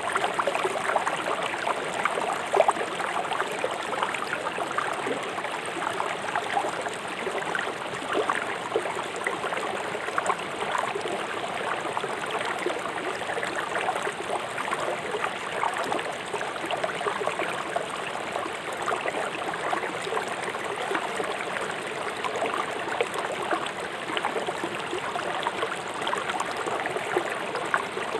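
A swift river running steadily over rocks, a dense splashing and gurgling rush of water.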